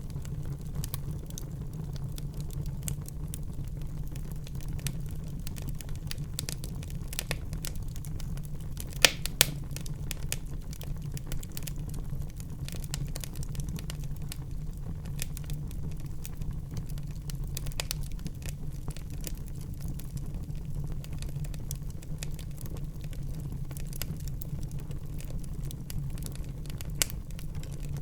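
Fire burning in a fireplace: a steady low rumble with frequent small crackles, and two sharper pops about nine seconds in and another near the end.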